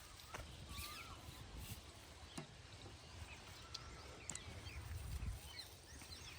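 Faint bird chirps and short calls over a low outdoor rumble, with a few light clicks.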